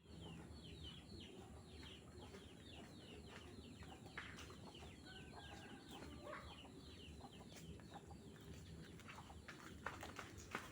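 Birds chirping faintly: a dense run of short, quick falling chirps over a low steady hum, with a few sharp knocks near the end.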